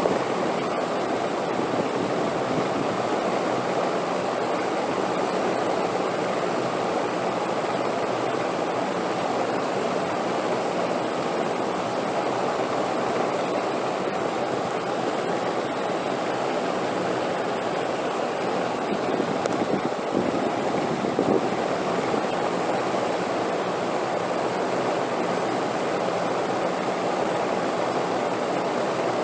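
Wind blowing steadily: a continuous rushing noise with slight swells and no gusts or breaks.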